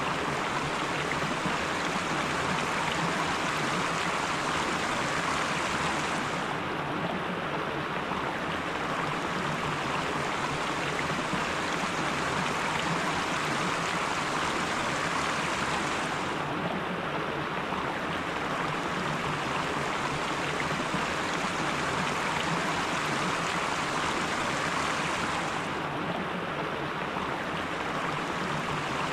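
Mountain stream water rushing and babbling over rocks, a steady unbroken flow. The brightest hiss drops away briefly three times, about every ten seconds.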